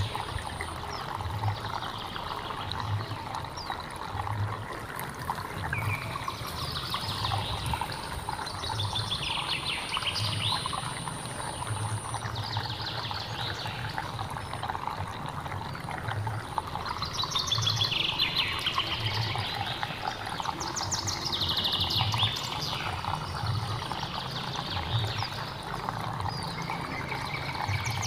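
Stream water running steadily with low gurgles, while a bird sings short, falling, trilled phrases every few seconds over it.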